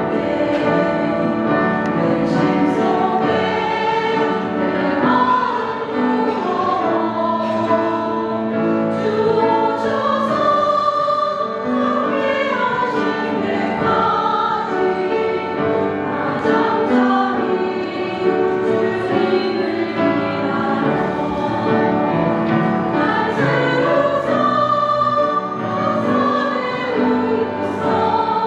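Women's vocal ensemble singing in several-part harmony with long sustained notes.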